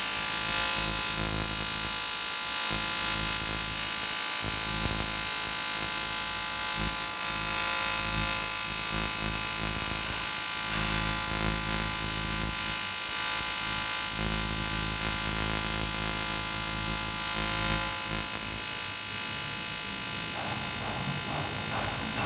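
An AC TIG welding arc on aluminium, buzzing steadily with a hiss.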